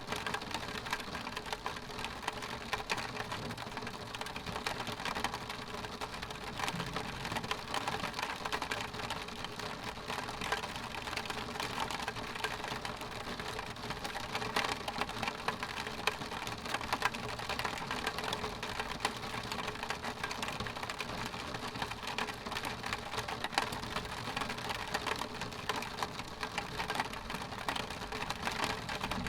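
Rain striking a window pane: a dense, steady stream of small drop ticks on the glass over an even hiss of falling rain.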